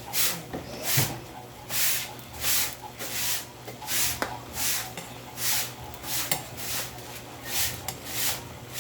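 Repeated rasping, rubbing strokes, a little under one and a half a second in a steady rhythm, with a few light knocks among them.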